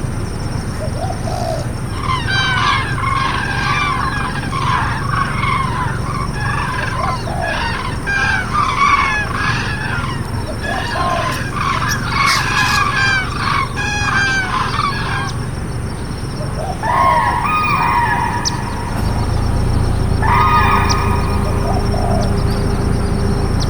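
A flock of cranes calling: from about two seconds in, many overlapping calls for some thirteen seconds, then a few separate calls near the end, over a steady low background rumble.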